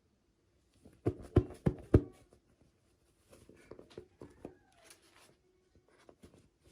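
Small plastic toys and packaging handled by hand: four sharp clicks or taps in quick succession about a second in, then softer clicking and rustling.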